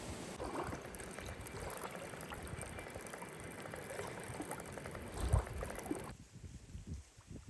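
Water sounds, a steady wash with many small ticks and splashes, that cut off abruptly about six seconds in, leaving a quieter outdoor background.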